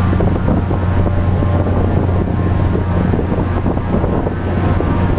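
Steady low engine hum, like an idling vehicle, under wind noise on the microphone.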